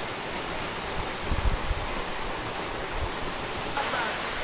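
Waterfall: a steady rush of falling water, with a few low thumps about a second and a half in.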